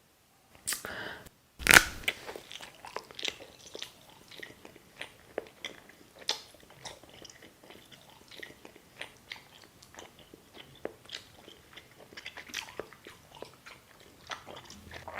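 Close-up eating: a loud crunching bite about two seconds in, then chewing with many small crunches and wet clicks.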